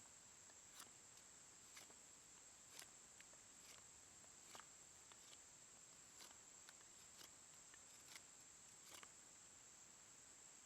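Near silence: a steady hiss with faint, irregular small clicks and ticks, roughly one every half second to a second.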